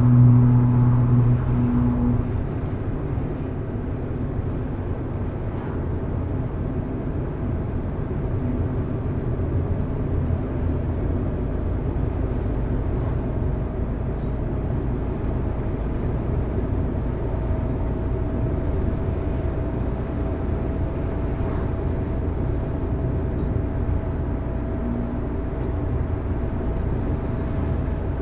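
Car driving along: a strong engine note fades over the first two seconds, then settles into a steady low hum of engine and tyre noise.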